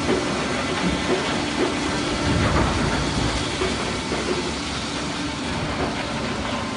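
Mobile Cambio rotor log debarker running on a test feed, a steady mechanical rattle with a few light knocks as a log passes through.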